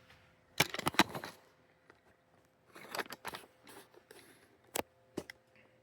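Parts of a vintage box fan being handled, giving clicks and knocks: a cluster about half a second in, another around three seconds in, and two sharp clicks near the end.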